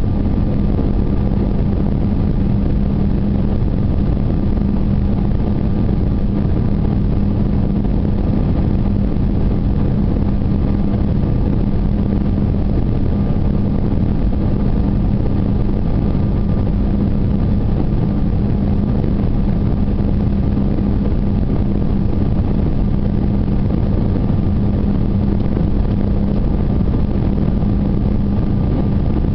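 Steady engine and airflow noise of an Airbus A319 heard inside the passenger cabin, with a steady low hum.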